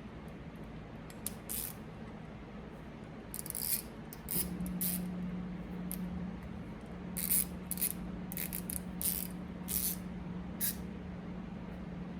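Handling noises at a desk: about a dozen short, hissy scrapes and rustles of parts and tools being moved, over a low steady hum that grows louder about four seconds in.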